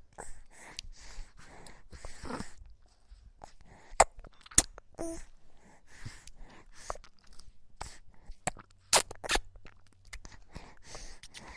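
A baby's mouth noises: irregular wet clicks and smacks of the lips and tongue, with a brief small pitched sound about five seconds in.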